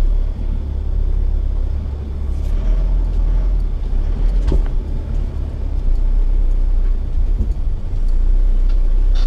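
Mitsubishi Triton ute heard from inside its cab, with a steady low rumble as it crawls over rough off-road ground. A few short knocks come through, about two and a half and four and a half seconds in.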